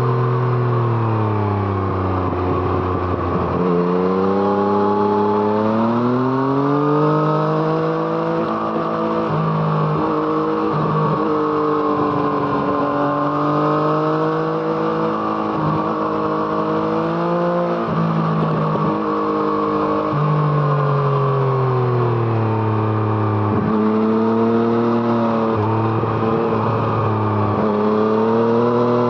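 Yamaha MT-09's three-cylinder engine through an Arrow Thunder exhaust, heard from on the bike while riding. The engine note falls away, then climbs again several times as the throttle is rolled off and back on, with brief breaks in the note between.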